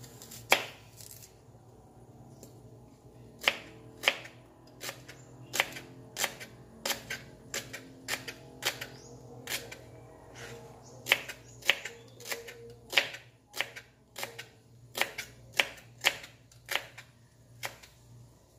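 Kitchen knife slicing a red onion on a plastic cutting board: the blade knocks sharply against the board, once near the start, then repeatedly from about three seconds in at roughly one or two strokes a second.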